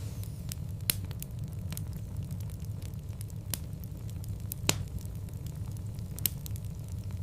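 Fire in a fireplace crackling, with sharp irregular pops over a steady low rumble. The loudest pop comes about two-thirds of the way through.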